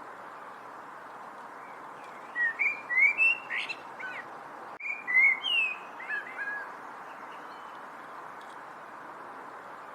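A songbird chirping in two short runs of quick rising and falling notes, the first a couple of seconds in and the second just past the middle, over a steady background hiss.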